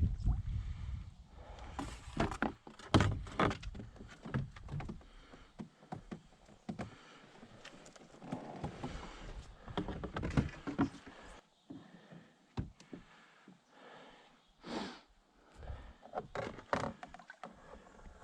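A series of irregular knocks and thunks, like paddles and gear knocking against a kayak hull, with wind rumbling on the microphone in the first couple of seconds.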